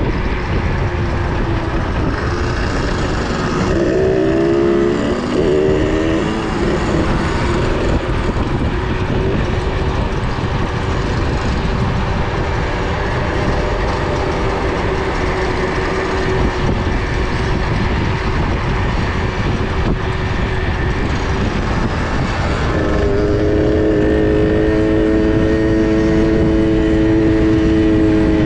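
Small two-stroke minibike engines running under way, heavy wind rushing over the microphone. The engine note wavers a few seconds in and settles into a steady, louder drone near the end.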